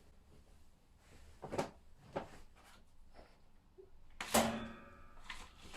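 A few light knocks and clicks of things being handled, then a louder clunk a little past four seconds in, followed by a brief ringing.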